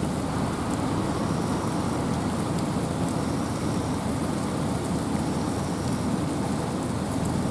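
Steady rain and wind in a forest: an even, unbroken rushing noise, heaviest in the low and middle range, with no break or change.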